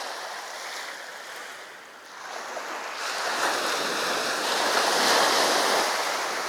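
Sea surf on a beach: a steady wash of waves that eases about two seconds in, then swells as a wave breaks and runs up, loudest around the middle of the second half before easing off.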